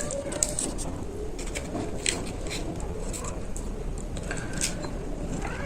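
Panipuri being eaten: crisp puri shells crunching and crackling in the mouth, with scattered sharp cracks, the loudest a little after the start and about two seconds in.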